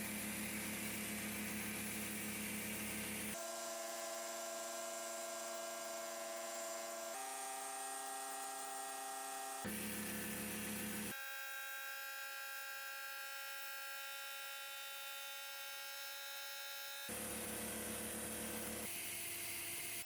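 Small electric power tool motor running with a steady hum. Its pitch shifts abruptly several times, at about 3, 7, 10, 11, 17 and 19 seconds in.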